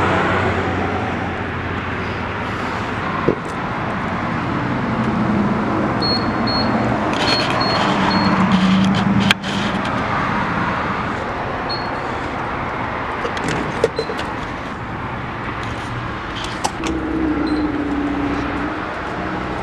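Car engine running with road noise, its pitch rising and falling a couple of times, with a few short clicks.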